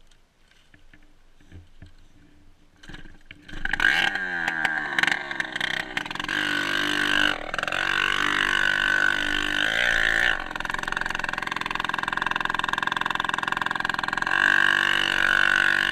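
Dirt bike engine that starts running loudly about four seconds in, after a few faint clicks, and then revs up and down.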